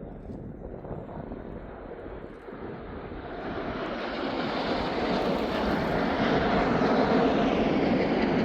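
Jet aircraft noise from the Red Arrows' BAE Hawk T1 jets, a broad roar that grows steadily louder from about two and a half seconds in as the formation approaches.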